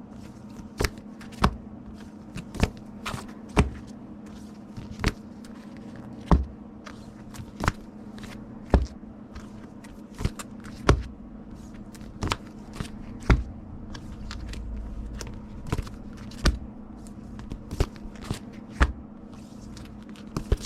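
Comic books in plastic bags being handled and stacked on a table: irregular sharp taps and clicks about once a second, with plastic rustling between them. A steady low hum runs underneath.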